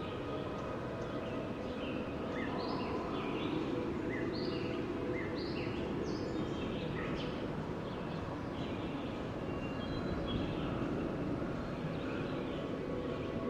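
Steady wind noise with birds calling in short chirps, about one a second.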